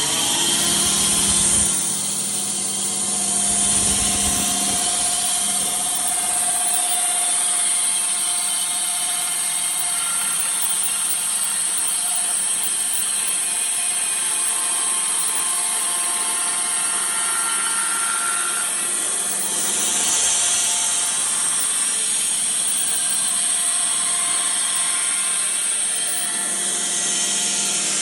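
Sawmill running, its blade cutting across a bog oak cookie to flatten it: a steady whine and hiss of the saw in the wood. The sound changes about two seconds in, again around twenty seconds, and near the end.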